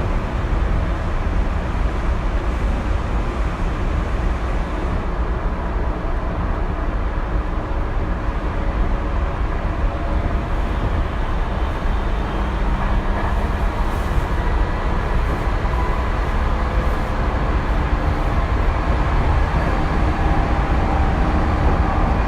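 Tokyu 2020 series electric train running: a steady rumble of wheels on the rails, with faint motor tones that grow clearer from about halfway.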